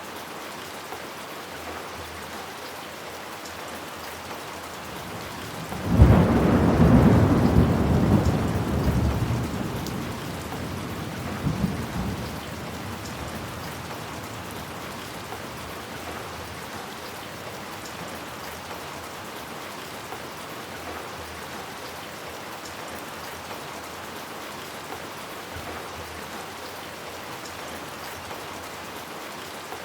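Steady rain falling, with a sudden clap of thunder about six seconds in. The thunder rumbles deep and loud, dies away over several seconds, and gives a smaller crack near twelve seconds.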